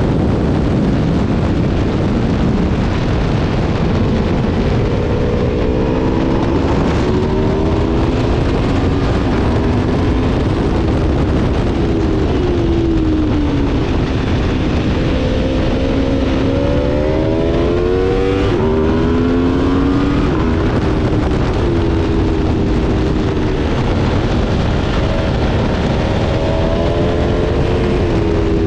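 Aprilia Tuono V4's V4 engine at speed on track, its pitch climbing under acceleration and dropping on the throttle-off several times, over a heavy rush of wind noise.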